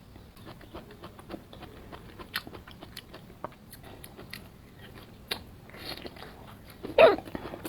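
A person chewing and biting into crunchy fried skewer food close to the microphone: a steady run of small, sharp crunches. A short, louder sound cuts in about seven seconds in.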